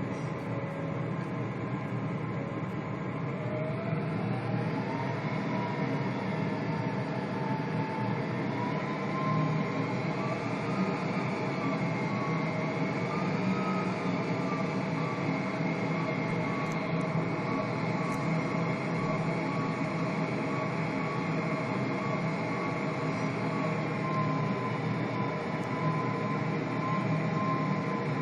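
Cabin noise of an Avro RJ100 airliner in flight: a steady rumble of airflow and its four turbofan engines. An engine tone rises about four seconds in, then wavers slightly as the thrust changes.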